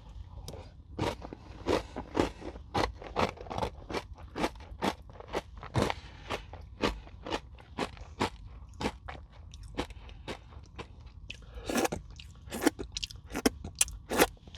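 Close-up chewing of a crunchy Nature Valley granola bar dipped in yogurt: a steady run of crisp crunches, about two a second, with a few louder crunches near the end.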